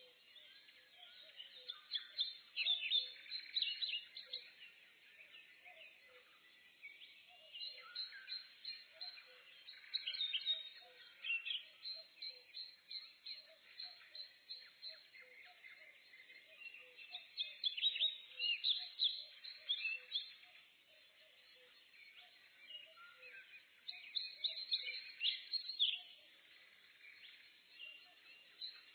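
Forest birds singing in a morning chorus: several overlapping chirping songs and trills that swell and fade every few seconds, with a soft low note repeating about once a second underneath.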